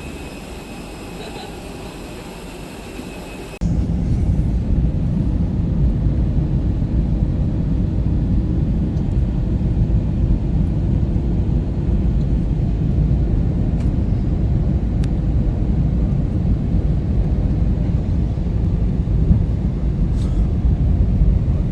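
Airliner cabin noise: a quieter steady hum with thin high whines, then a loud, deep rumble from the jet engines and airframe that starts suddenly a few seconds in and holds steady, as during a takeoff roll or landing.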